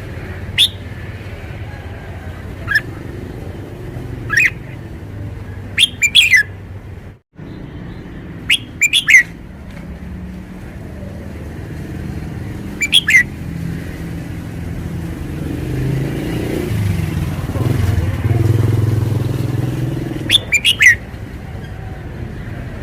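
Red-whiskered bulbul giving short, sharp chirps and whistled notes, singly or in quick clusters, every few seconds. Under them runs a steady low rumble that grows louder in the second half.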